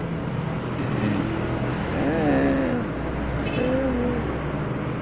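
A bird calling: a couple of short, wavering calls about two seconds in and again near the four-second mark, over a steady low engine-like hum.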